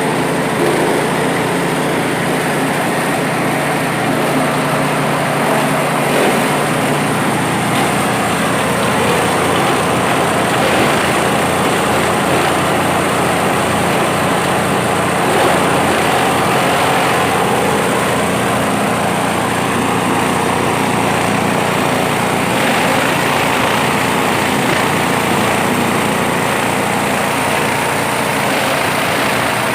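Grass chopper machine (G 20 type) running steadily, with a continuous loud mechanical noise.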